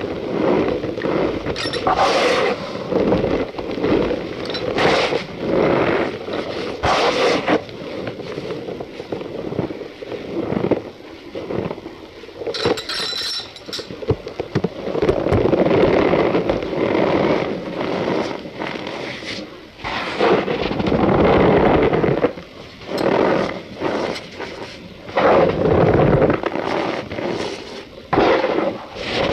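Cornstarch powder being squeezed and crushed by hand, giving squeaky crunches and crackles in irregular bursts.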